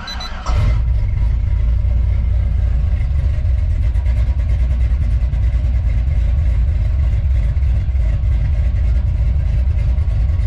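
LS-swapped Chevy truck's V8 on a true-dual 2.5-inch exhaust with Flowmaster 40 mufflers and no X-pipe, firing up about half a second in and then idling steadily with a deep rumble. The new exhaust sounds good, not too loud, with a good thump.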